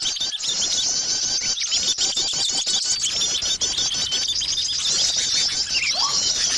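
Dense, unbroken chatter of many small songbirds, rapid high chirps overlapping one another, with a short rising whistle near the end. This is a bird-lure (pikat) recording meant to draw small birds in.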